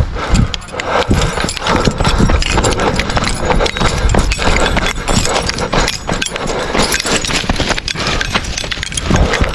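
Hurried footsteps and gear rustling as a hunter runs across the field to pick up downed geese: a dense, irregular run of thumps and scuffs.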